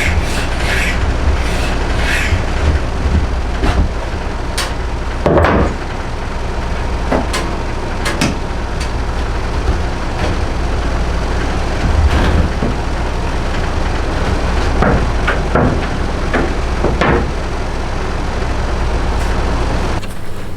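Hand tools working a yew bow stave: irregular scraping strokes on the wood over a steady low hum.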